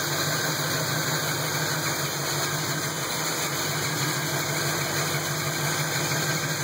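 Brand-new 350 small-block V8 idling steadily through headers and a Flowmaster exhaust, with no revving.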